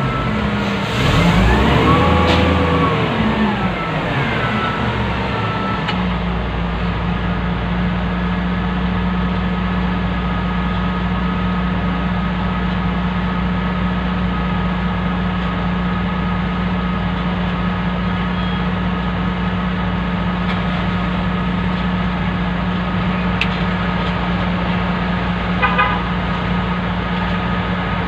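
Wheel loader's diesel engine heard from the cab, revving up and back down over the first few seconds, then running steadily at a low hum. A brief run of beeps comes near the end.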